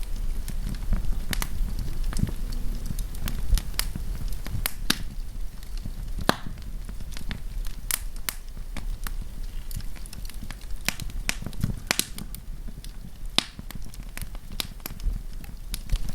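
Wood campfire burning, with irregular sharp crackles and pops from the wood over a low, steady rumble of the flames.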